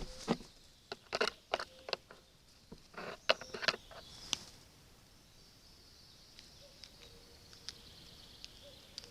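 A run of sharp taps and rustles through the first four seconds or so, then a few isolated ticks over a steady faint high hiss.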